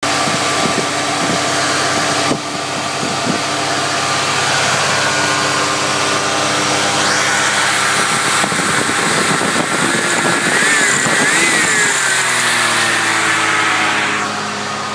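Ford Crown Victoria's 5.0-litre V8 engine running, its pitch rising and wavering about ten seconds in as it is revved, then falling back over the last few seconds.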